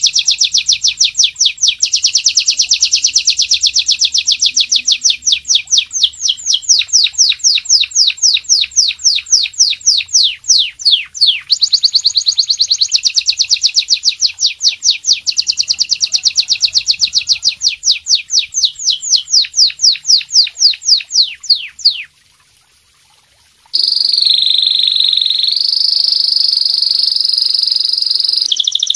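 Recorded songbird calls: a fast, even string of high, downward-sweeping chirps, several a second. After a short break late on, a sustained high trilling note follows, and the chirp series starts again near the end.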